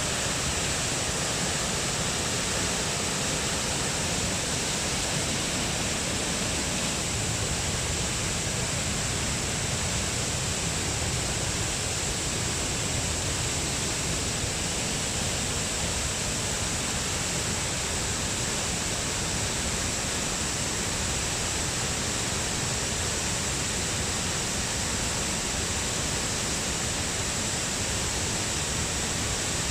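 Rain-swollen torrent of fast-flowing water rushing steadily and unbroken.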